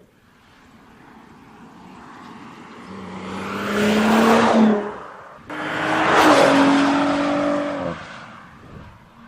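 The 2017 Audi S5 Coupe's turbocharged V6 driving past, its engine note and road noise building to a peak and then fading. About five and a half seconds in, an abrupt cut starts a second loud pass whose engine note falls slightly in pitch as it fades away.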